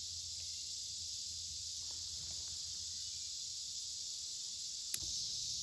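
Steady high-pitched insect chorus, with a single sharp click about five seconds in.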